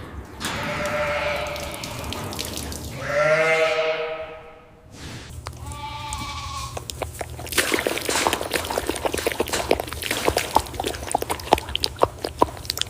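Goats bleating, three calls in the first half, followed by a long run of quick, irregular clicks and taps over a steady low hum.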